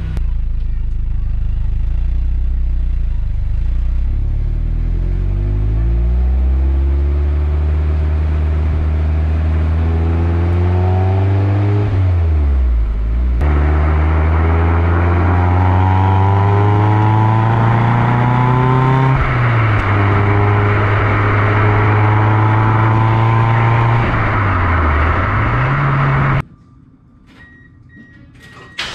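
Mazda MX-5 Miata four-cylinder engine running through a Yonaka axle-back exhaust under acceleration. The engine pitch climbs steadily, dips and recovers three times, then the sound cuts off suddenly near the end.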